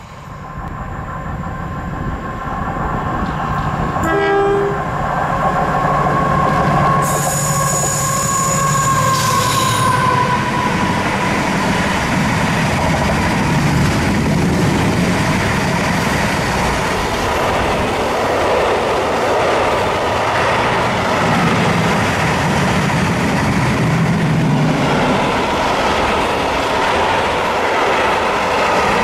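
Diesel freight train approaching and passing, sounding a short horn blast about four seconds in. The locomotive's tone drops in pitch as it goes by about ten seconds in, followed by the steady noise of the wagons rolling past.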